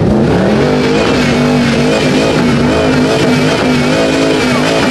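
Car engine revving at a high, held speed, its pitch rising and falling repeatedly.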